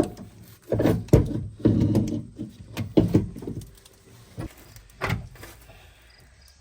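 Metal clunks and rattling as a replacement rear axle is handled and worked into place. A burst of knocks in the first half is followed by a single knock a little after the middle.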